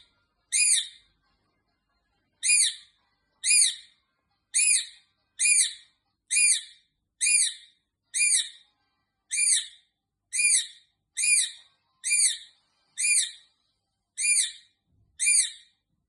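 A bird giving the same short, high call over and over, about once a second, each call quickly rising and falling in pitch.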